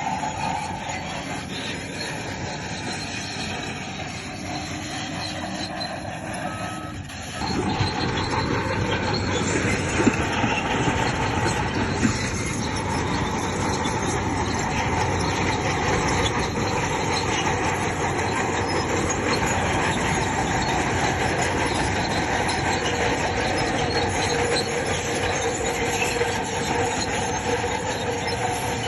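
Crawler bulldozer running and working, its steel tracks giving a steady high metallic squeal over the engine noise; the sound gets louder about seven seconds in.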